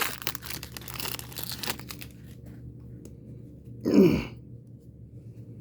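A card pack's wrapper crinkling and tearing as it is opened, a dense crackle for about two seconds. About four seconds in comes one short, loud vocal noise with a falling pitch.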